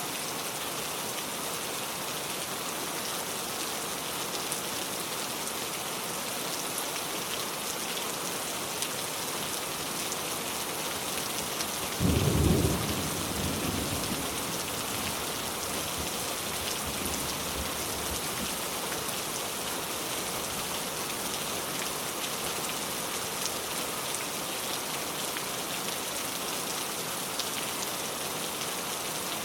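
Steady rain falling on a car, with a clap of thunder a little before the middle that rumbles away over the next few seconds.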